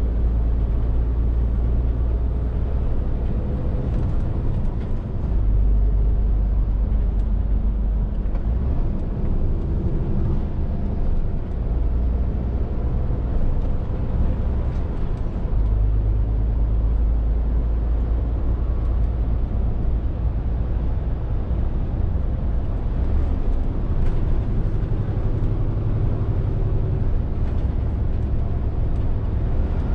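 Scania R450 truck's 13-litre straight-six diesel engine running under way, a low drone that swells and eases as the load changes, with tyre and road noise.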